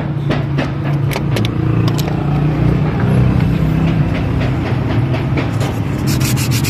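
A motor running with a steady low hum and scattered clicks and rattles; about six seconds in, a fast, even scraping starts over it.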